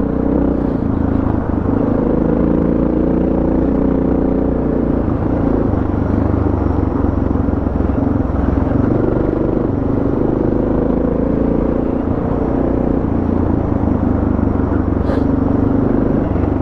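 Suzuki DR650 single-cylinder four-stroke engine running under load at speed on a dirt road, its pitch shifting with the throttle, over wind and tyre noise.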